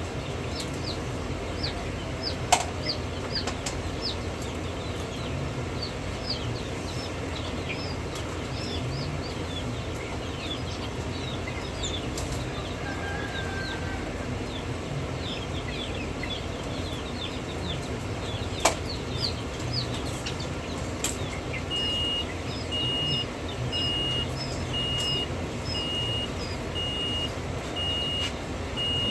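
Chicks peeping: many short, high, falling peeps over a steady low hum, with a couple of sharp clicks. About three-quarters of the way through, an evenly repeated high electronic beep starts and keeps going.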